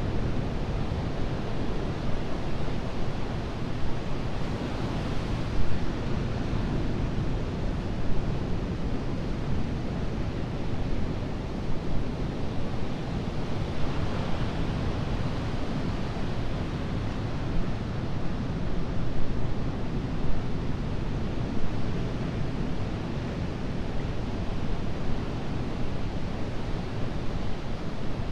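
Atlantic ocean surf breaking and washing onto a sandy beach: a continuous noisy wash of waves that swells a little about five seconds in and again about fourteen seconds in.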